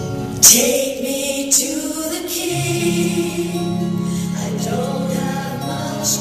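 Gospel music: held choir voices over sustained instrumental chords. A sharp, loud hit comes about half a second in and a smaller one about a second and a half in.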